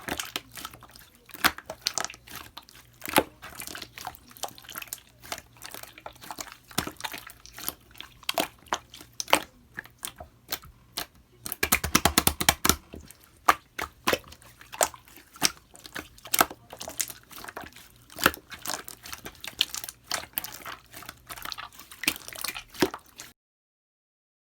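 Clear slime being pressed and stretched by hand, making a run of sharp, sticky clicks and pops that come thick and fast for a couple of seconds near the middle. The sound cuts out abruptly to dead silence about a second before the end.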